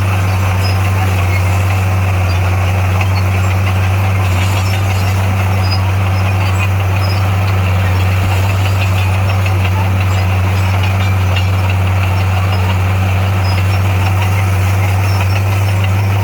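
Heavy-equipment diesel engine running at a steady, unchanging speed: a deep, constant hum with no revving or load changes.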